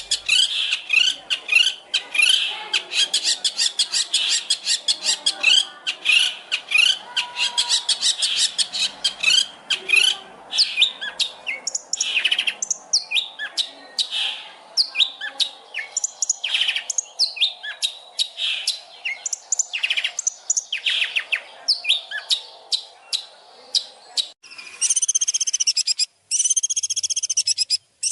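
Songbird recording used as masteran, tutor song for a long-tailed shrike to copy: fast, dense, high-pitched chirping and trilling with many quick repeated notes. About 24 seconds in it changes abruptly to a different bird's call, a short arched note repeated steadily with brief breaks.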